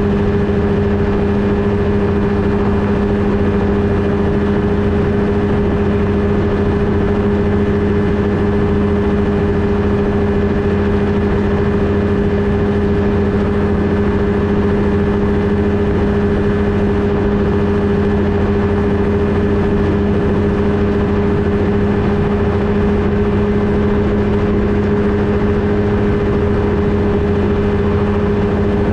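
Flightstar II ultralight's engine and propeller running at a steady, unchanging pitch.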